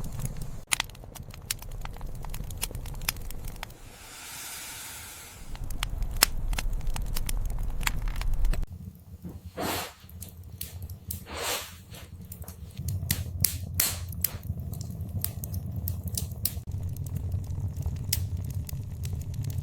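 Wood fire in a fireplace crackling, with many sharp pops scattered over a steady low rumble. A brief hiss about four seconds in, and two short louder whooshes around the middle.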